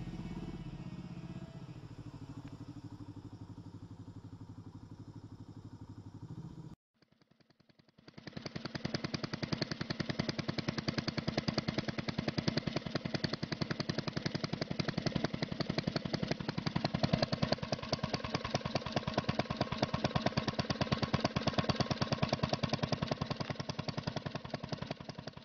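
A few seconds of background music that cut off about seven seconds in. Then a motorcycle engine idling with a rapid, even pulse.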